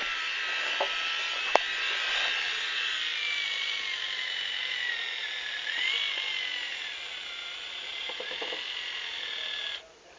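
Steady mechanical whirring with a wavering pitch and faint ticking, cutting off suddenly near the end.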